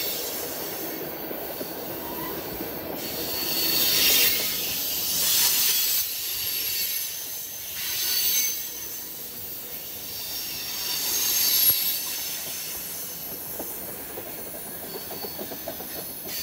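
Freight cars (tank cars, then boxcars) rolling past close by: steel wheels running on the rails with a thin, high squeal. There are several louder swells of wheel noise, about four, five and a half, eight and twelve seconds in.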